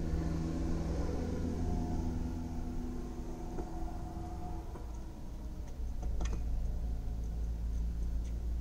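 Steady low rumble of an idling car engine heard from inside the car, with a hum over the first half. A few sharp pops of tennis balls struck by racquets come through, the loudest about six seconds in.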